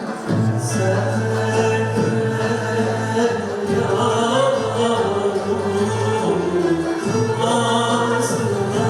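A choir singing a Turkish art music song over instrumental accompaniment.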